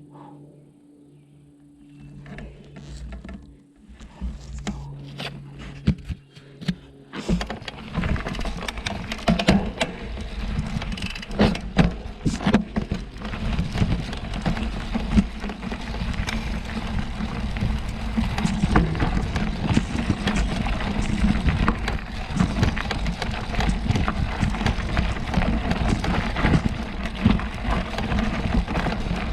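Mountain bike riding over a rough dirt trail: tyre noise with many small knocks and rattles from the bike. It is quieter for the first several seconds, then becomes much louder and busier about seven seconds in.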